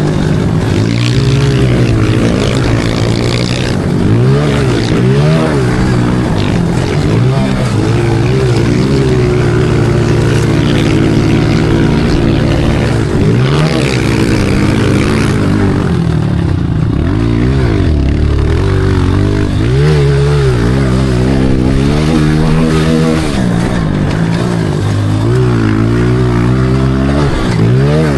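Pit bike engine ridden hard around a track, its pitch climbing and dropping again and again as the rider revs out, shifts and backs off for corners.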